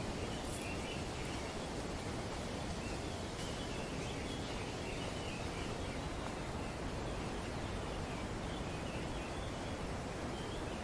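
Steady rustle of wind through tree leaves, with faint short bird chirps scattered throughout.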